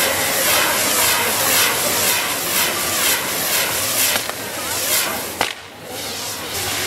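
Castillo firework tower burning: a loud, steady hiss with a repeating sweep about twice a second. A single sharp crack comes about five and a half seconds in.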